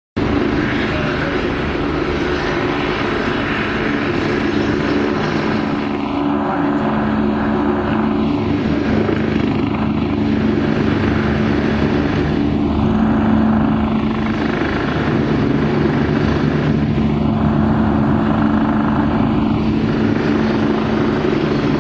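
Helicopter running steadily with a constant drone, its tone sweeping slowly up and down every few seconds.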